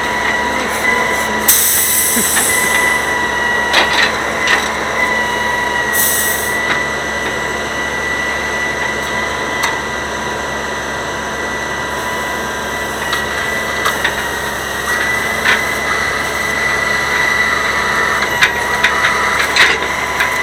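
Grapple truck at work: a steady high whine over a noisy mechanical din, with scattered knocks and clatter.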